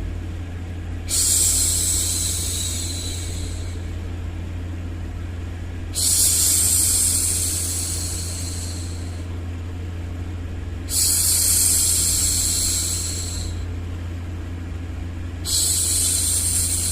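A woman shushing a baby, a long 'shhh' repeated four times about every five seconds, each starting suddenly and fading over two to three seconds, over a steady low background noise.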